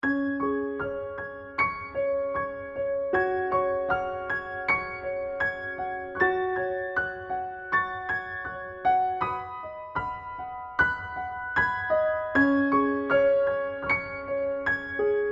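Gentle piano music starting abruptly out of silence: a slow melody of single struck notes, about two or three a second, over longer held lower notes.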